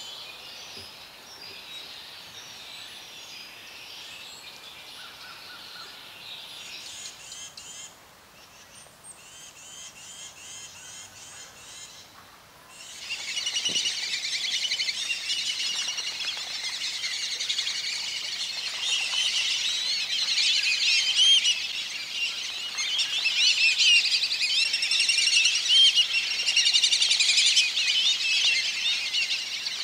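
Wild birds chirping and calling in a steady chorus. It is fainter for the first dozen seconds, then about 13 s in switches suddenly to a louder, denser flurry of high chirps and whistles.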